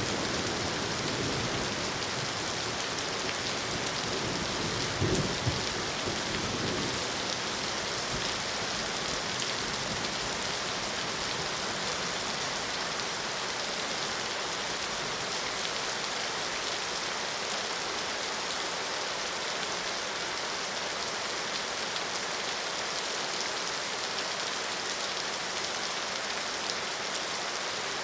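Steady rain falling, an even hiss of drops. About five seconds in there is a brief low rumble.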